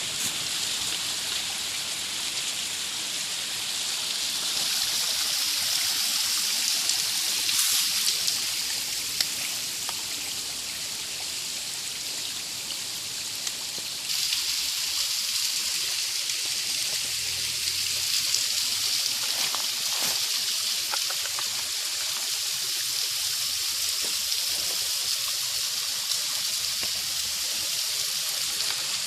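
Small waterfall and shallow stream running over bedrock: a steady rush of water, a little louder about halfway through.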